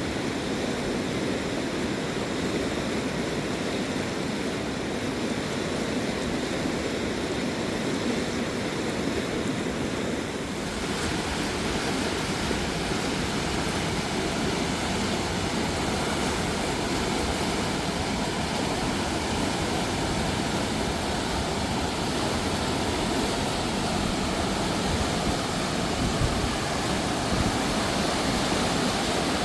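Fast-flowing river water rushing in a steady, dense wash, turning hissier about ten seconds in.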